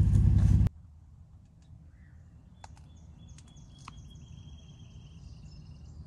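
A low steady hum inside the car stops abruptly under a second in. Quiet outdoor ambience follows, with birds chirping, a thin high call held for a couple of seconds, and a few faint clicks.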